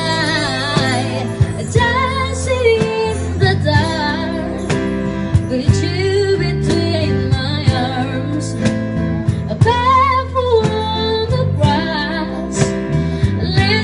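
A woman singing a melodic song over instrumental accompaniment with guitar and a steady beat.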